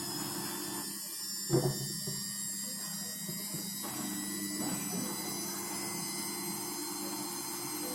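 Midea 7 kg front-load washing machine spinning steadily at its third spin speed, as the drum speed is raised in steps, with a steady motor whine and hum. A brief knock sounds about one and a half seconds in.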